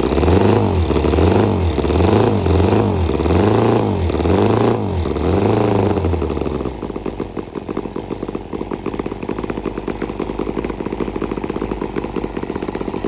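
Scale-model Victoria V35 Bergmeister horizontal V-twin gasoline engine running. It is revved up and down repeatedly, about once a second, for roughly the first six seconds, then settles to a steady, quieter idle with an even, fast beat.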